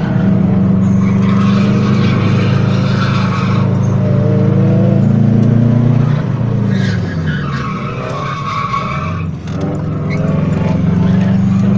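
Car engine heard from inside the cabin, held at high revs, dropping in pitch about six seconds in and climbing again near the end, with tyres squealing in two long stretches as the cars drift through the corners.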